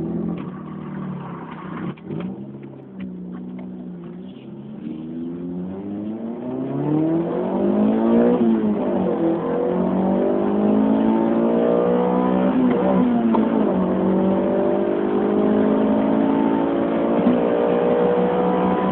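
Honda Prelude engine accelerating hard through the gears, its pitch climbing in each gear and dropping at each upshift. It shifts about three times and gets louder as speed builds.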